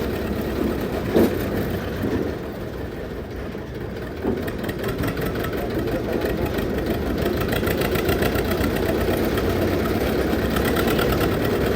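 Old Zetor tractor's diesel engine running steadily, getting a little louder after the first few seconds, with two short knocks about one and four seconds in.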